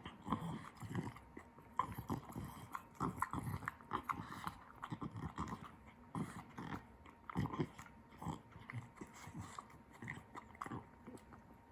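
Frenchton puppy chewing and gnawing at something: an irregular run of clicks and low thumps.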